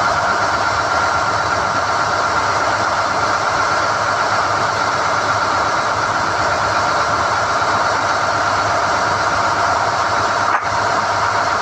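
SDH-1600 core drilling rig running steadily under load during rod hoisting, with a momentary break in the sound about ten and a half seconds in.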